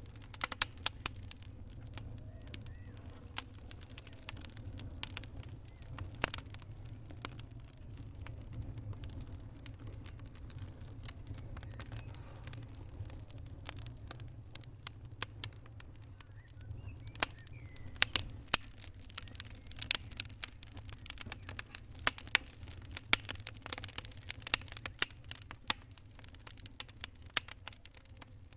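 Wood fire crackling: irregular sharp pops and snaps, thicker from about two-thirds of the way through, over a steady low rumble.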